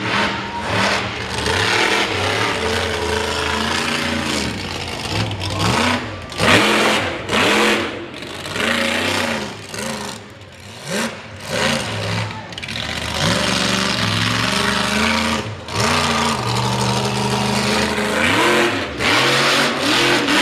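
Mega truck engine revving hard in a string of short bursts, its pitch climbing and dropping again and again, over a continuous engine drone.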